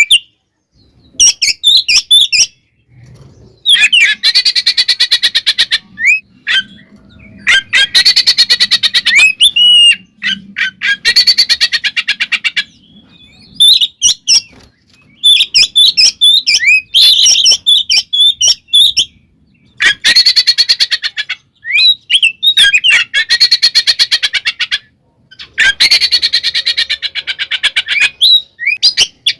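Oriental magpie-robin (kacer) singing loudly. It alternates about six bursts of very fast, harsh chattering, each a second or two long, with runs of varied, sliding whistled phrases.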